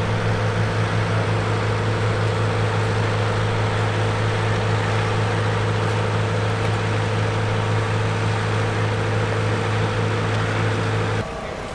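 Steady drone of an aircraft engine, holding one unchanging pitch, that cuts off abruptly near the end.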